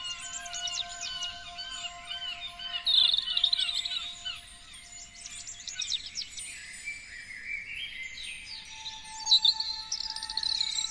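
Several songbirds singing at once: quick chirps and trills overlapping, with the loudest run of chirps about three seconds in and another near the end.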